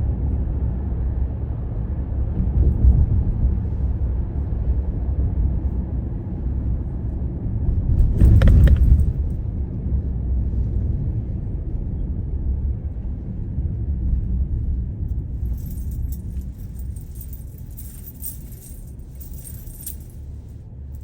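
Steady low rumble of a road vehicle in motion, swelling louder for about a second some eight seconds in. From about two-thirds of the way through, light metallic jingling comes and goes as the rumble eases off.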